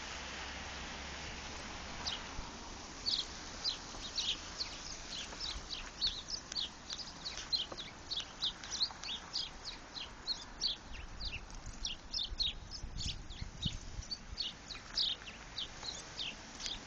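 Small birds chirping: quick, short, high chirps, several a second, that begin about two seconds in over a light steady hiss.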